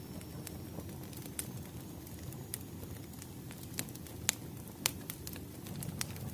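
Wood fire crackling: a steady low rumble of burning logs with scattered sharp pops, the two loudest about four and five seconds in.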